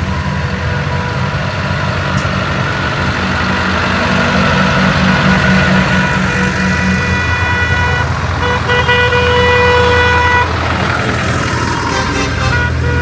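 Diesel tractor engines running as the tractors drive past, with a horn blowing one steady note for a few seconds past the middle.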